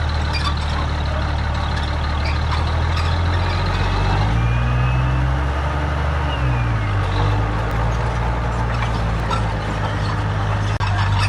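Heavy diesel engine of earthmoving machinery running steadily, revving up about four seconds in and easing back down a couple of seconds later.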